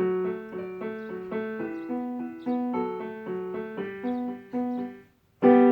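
Electronic keyboard with a piano sound playing a melody of separate notes over a lower accompaniment. After a brief pause about five seconds in, a louder chord is struck and held.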